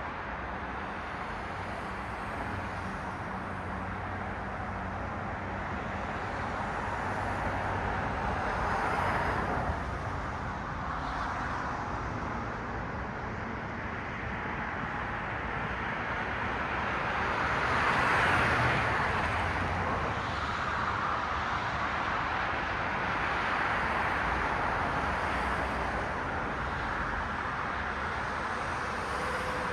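Cars passing on a city road, their tyre noise swelling and fading, the loudest pass about eighteen seconds in and another a little before ten seconds.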